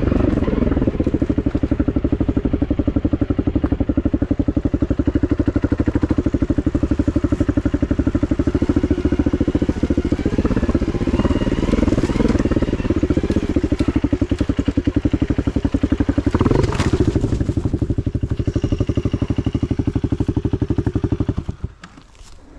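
Honda CRF250 dirt bike's single-cylinder four-stroke engine idling with a steady, even pulse, its pitch briefly rising and falling about three-quarters of the way through, then switched off, cutting out shortly before the end.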